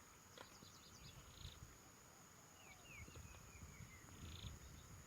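Faint outdoor ambience: a bird giving a quick series of short, falling chirps midway, with a brief buzz twice and a low rumble underneath.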